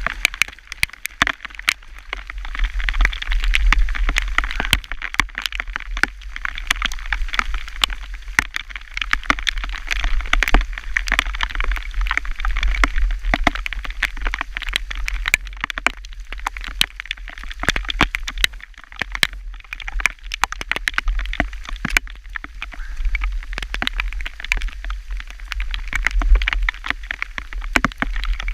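Hailstones and rain striking close to the microphone: many sharp, irregular ticks over a steady low rumble.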